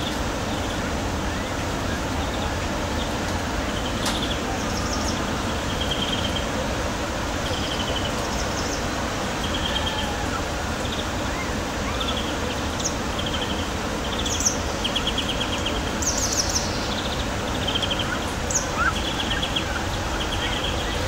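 Steady rain-like hiss throughout, with short, high, trilling chirps repeating about once a second over it.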